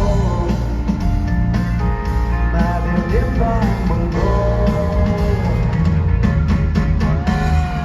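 Live rock band playing a song through concert speakers, with singing, guitar and drums; near the end a single long sung note is held, sliding slightly down in pitch.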